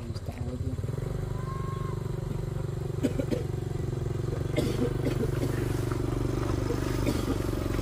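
A small step-through motorcycle's engine running steadily while it is pushed up a rough dirt climb, with a few brief, wavering pitched sounds about three and five seconds in.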